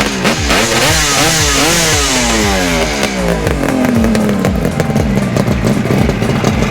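750 cc two-stroke motorcycle engine revved with several quick throttle blips that rise and fall, then dropping back about four seconds in to a steady, rapid-beating idle.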